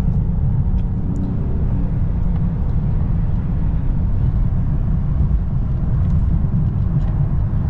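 Steady low road and engine rumble heard from inside a moving vehicle's cabin, with a faint hum in the first couple of seconds.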